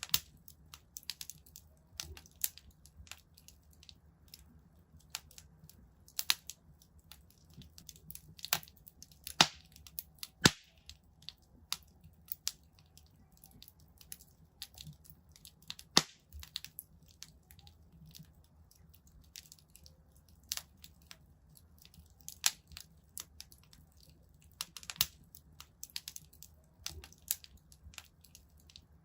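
Wood fire in a fireplace crackling, with irregular sharp pops and snaps, a few louder pops standing out about a third and halfway through.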